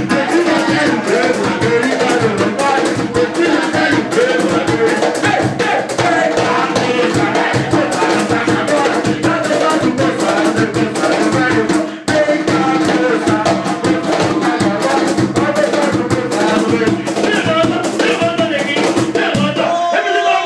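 A band playing lively music with a shaker or rattle and drums over sustained notes, ending just before the close.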